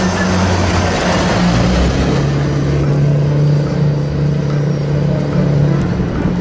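Bus engine running steadily, a vehicle sound effect played for the toy school bus.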